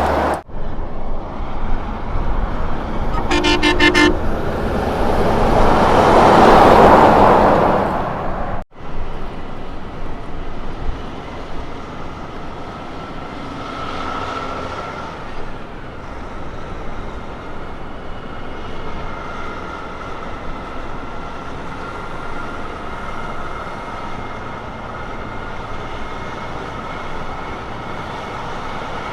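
A road train truck sounds its air horn with one short toot, then its engine and tyres build to a loud pass and fade. After a cut, a heavy truck runs steadily along the road.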